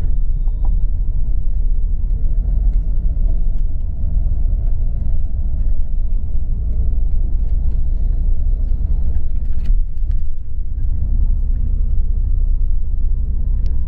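Steady low rumble of a moving tour bus, its engine and road noise heard from inside the cabin, with a faint steady hum and a few light clicks and rattles.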